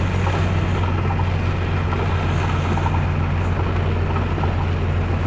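Vehicle engine running with a steady low drone while driving, under a dense, even hiss of heavy rain and wet-road noise.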